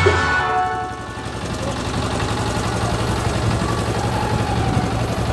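Music with tabla fades out about a second in, leaving a steady, low engine idle.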